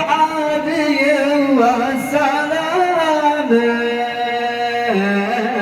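A single male nasheed singer's voice holding long, ornamented notes without clear words, gliding between pitches and stepping down to lower held notes near the end.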